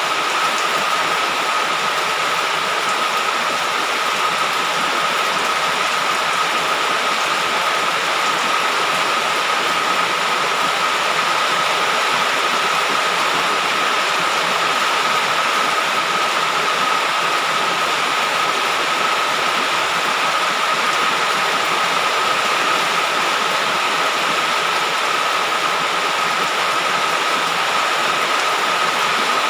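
Heavy rain falling in a steady, unbroken hiss, with a constant high-pitched tone running through it.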